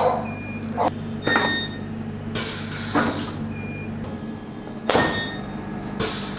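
Sharp knocks and clicks of metal bodywork, about seven at uneven spacing, over a steady low hum.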